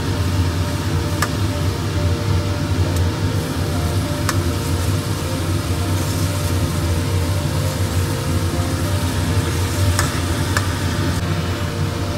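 Tofu in sauce simmering and sizzling in a wok while a metal ladle stirs it, with a few sharp clinks of the ladle against the pan. A steady low hum runs underneath.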